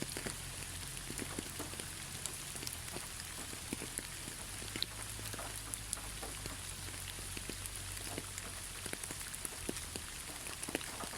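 Steady rain falling, an even hiss with many separate drops ticking sharply on a hard surface, over a low steady rumble.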